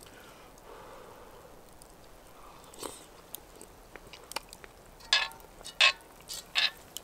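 Eating sounds: chewing and biting, with a few sharp, loud bites in the second half.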